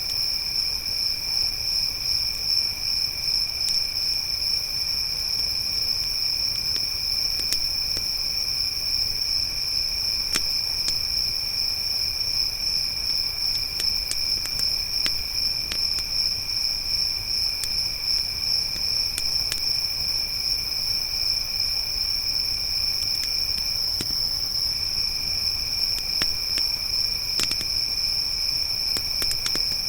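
Crickets chirring in a steady, unbroken high-pitched drone, one chorus higher and louder than a second, lower one that drops out briefly a little past the middle. Scattered faint crackles and pops of a wood campfire sound through it.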